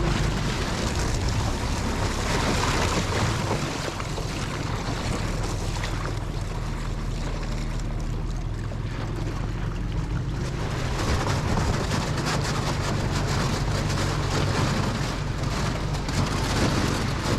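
Dinghy outboard motor running steadily while the dinghy pushes through thin ice, with a rushing hiss of water and ice over it. There are many fine crackles in the second half.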